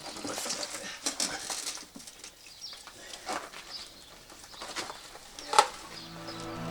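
Scattered knocks, clicks and scrapes of hands and tools at work, with one sharp knock about five and a half seconds in. Music begins to fade in near the end.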